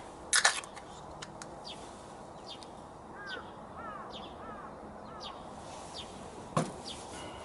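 Small birds chirping repeatedly over a steady outdoor background, with a quick run of short arched calls in the middle. Sharp knocks sound about half a second in and again near the end.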